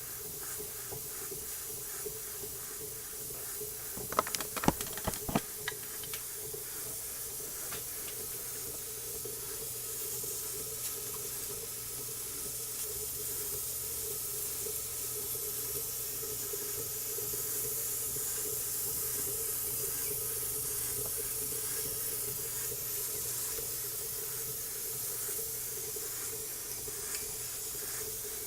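Model steam engine (1-inch bore, 1¼-inch stroke) running under steam, with a steady hiss of steam and an even, fast beat beneath it. A few sharp knocks come about four to five seconds in.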